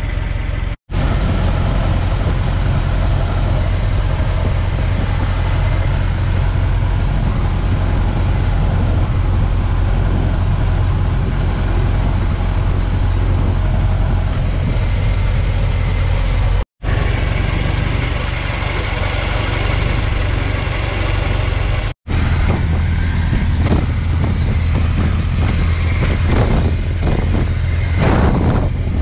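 1920 Ford Model T's four-cylinder engine running steadily at road speed, heard from its open cab together with road and wind noise. The sound drops out briefly at three cuts. Over the last several seconds it turns rougher, with gusts of wind noise.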